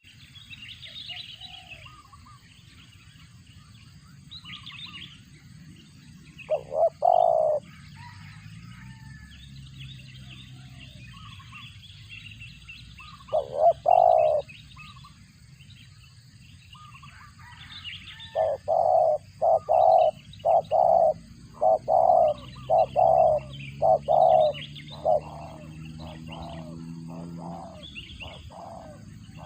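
Zebra dove cooing in short, loud notes: a couple of coos twice, then a quick run of about a dozen. Softer, higher chirping from small birds goes on throughout.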